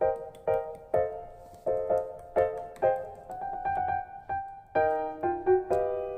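Background piano music: chords struck at a steady pace, about two a second, each ringing and fading before the next.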